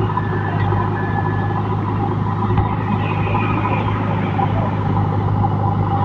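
A JCB digger's diesel engine running steadily under work, a constant low drone.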